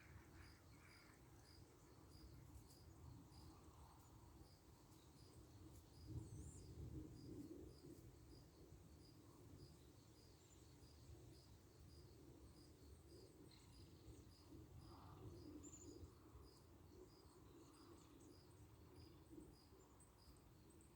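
Near silence with faint insect chirping: short high-pitched pips repeating evenly, about two a second.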